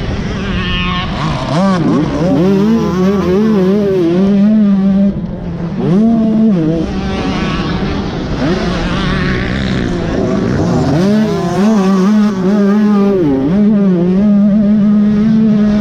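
Dirt bike engine ridden hard on a motocross track, the throttle opening and closing so that the pitch climbs and drops again and again, with brief steadier stretches between.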